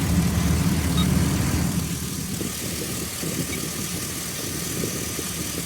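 Chevy 2500 HD pickup's engine idling with the hood open. Its steady hum gives way to quieter, rougher running about two seconds in.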